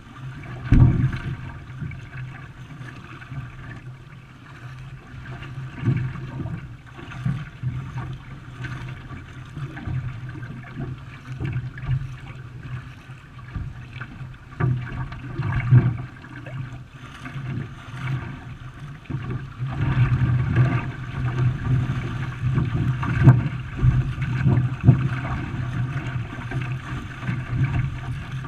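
Canoe under way: water splashing and gurgling around the hull and paddles, with irregular knocks and surges over a steady low rumble.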